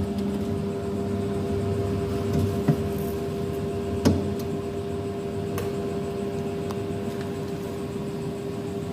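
Steady electric hum of a homemade egg incubator built from a two-door refrigerator, its fan motor running at an even pitch. A few light knocks sound over it, the loudest about four seconds in.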